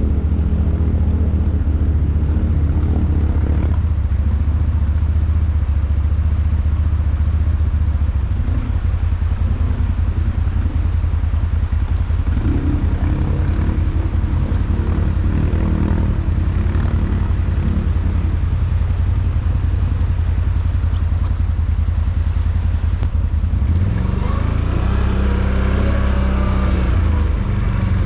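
ATV engine running, with a steady low drone; near the end its pitch rises and falls as the rider works the throttle.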